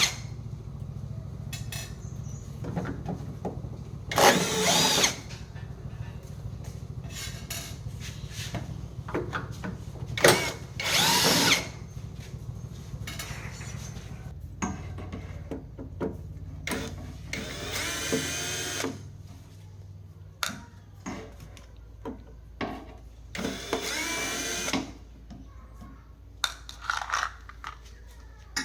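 A small power tool running in several short bursts about a second long, over a steady low hum.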